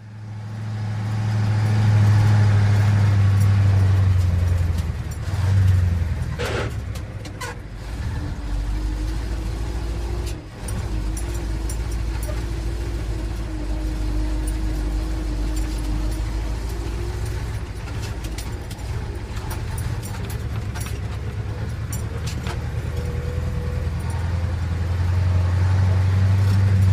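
Steady low motor hum, dropping deeper about eight seconds in and rising again near the end, with a couple of short clicks in between.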